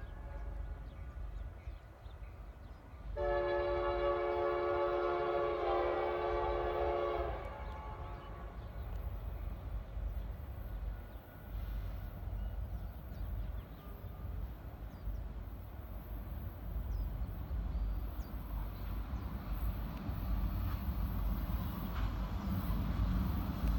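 Locomotive air horn sounding one long chord of about four seconds, a few seconds in. After it a steady low train rumble builds toward the end.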